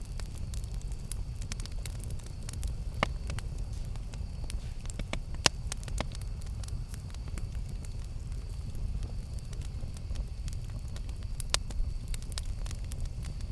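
Campfire burning with a steady low rumble and irregular sharp crackles and pops, a few louder snaps standing out about 3, 5.5 and 11.5 seconds in.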